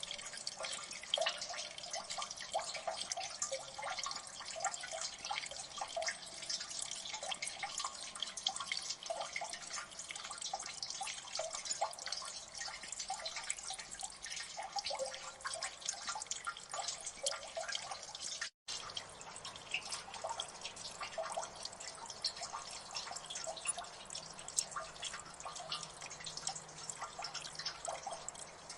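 Water dripping in a gully: many drops falling quickly and irregularly, overlapping into a steady patter of short plinks. The sound cuts out for an instant about two-thirds of the way through.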